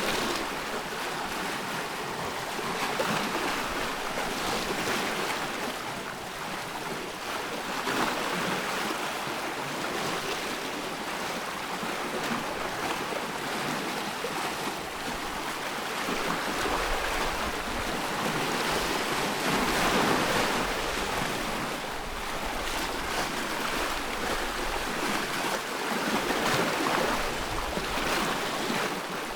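Ocean waves breaking and washing ashore, a steady rush that swells and eases every few seconds.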